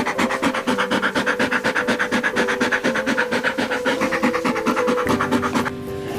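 A fast, even rasping or scratching rhythm, about eight strokes a second, over background music with held notes; the rasping stops shortly before the end.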